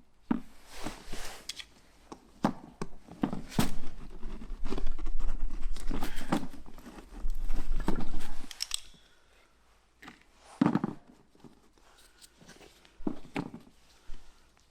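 Hands working with small fuel-line parts and hose: a busy run of clicks, knocks and crinkly rustling for about eight seconds, then a few separate knocks.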